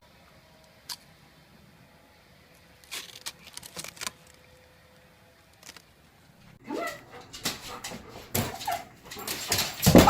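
A dog's sounds: scattered knocks and clatter, then a loud whine with rising and falling pitch near the end.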